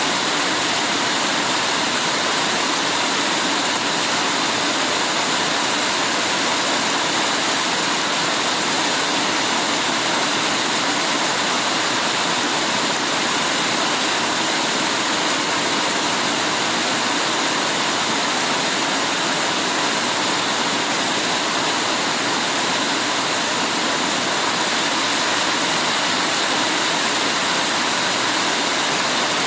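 Heavy rain falling steadily, a dense even hiss with no single drops, thunder or other sounds standing out.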